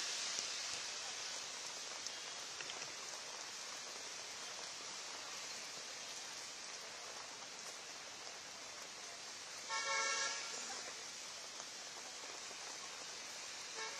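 Steady hiss of heavy rain with street traffic. A vehicle horn honks once, about ten seconds in, and briefly again at the very end.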